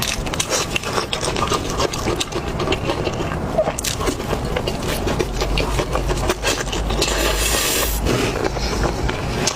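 Close-miked chewing of food: a dense run of wet clicks and crunching crackles, with a brief hiss about seven seconds in.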